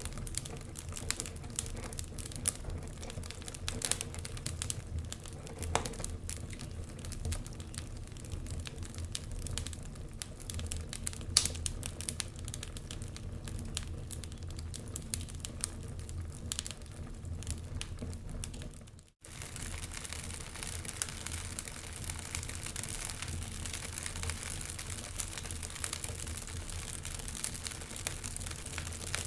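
Wood fire crackling in a fireplace: frequent small pops and snaps over a low, steady rumble of flame. The sound cuts out for a moment about two-thirds of the way through, then carries on with a little more hiss.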